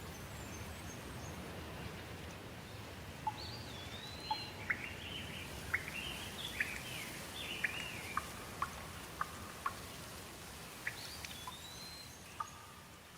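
Steady rain falling, with a bird calling over it: a rising-then-falling whistle heard twice among short chirps, and scattered sharp ticks like drips.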